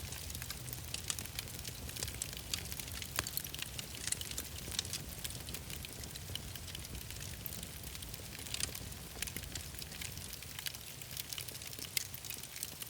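Wood fire in a fireplace crackling: irregular small pops and snaps over a low, steady rumble.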